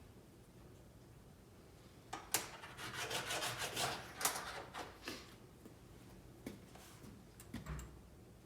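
Hand file scraping across a small metal part in a quick run of strokes for about three seconds, deburring it, followed by a few light clicks as the part is handled.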